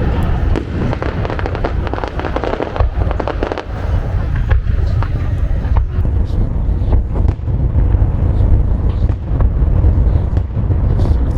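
Fireworks going off in a dense run: continuous low booms overlaid by many sharp bangs and crackling reports.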